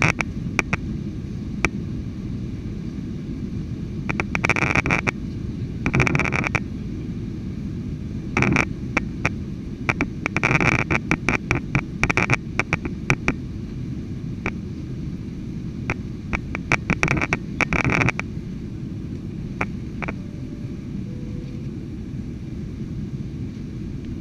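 Cabin noise in a Ryanair Boeing 737-800: the steady low rumble of its CFM56 jet engines and airflow. Several bursts of sharp rattling clicks come through it, the last dying out about three quarters of the way through.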